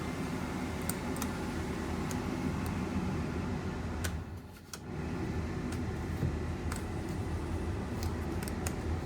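Ford E350 van's heater and AC blower fan running steadily, with a low hum, while the control knobs are clicked through their settings. The fan dips briefly about halfway through before picking up again.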